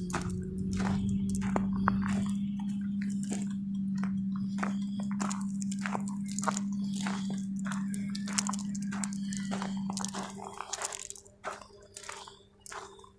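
Footsteps crunching on gravel, with a steady low hum that fades out about ten seconds in.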